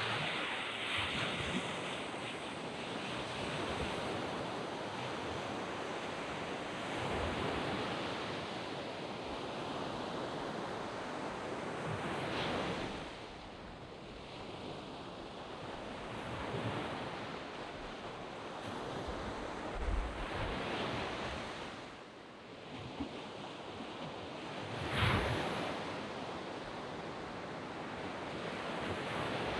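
Small waves breaking and washing up on a sandy beach, the surf swelling and easing every four to five seconds.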